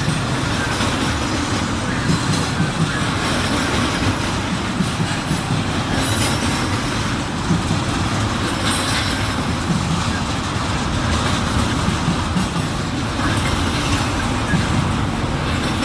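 Intermodal freight train's cars rolling past at speed, a steady loud rumble with the wheels clacking over the track.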